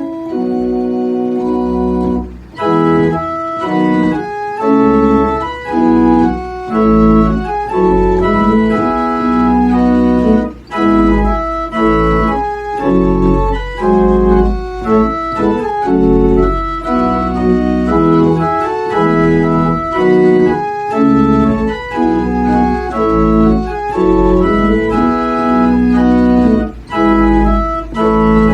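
Organ playing sustained chords over a deep pedal bass, the harmony moving every second or so; the sound grows fuller about two seconds in.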